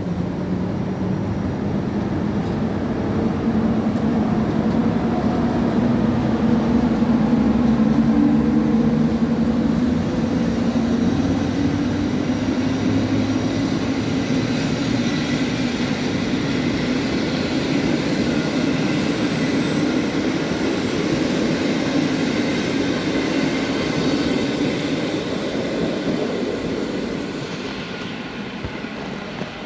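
A train running along a platform track, a steady mechanical hum and rumble of its motors and wheels that builds over the first few seconds and fades away near the end.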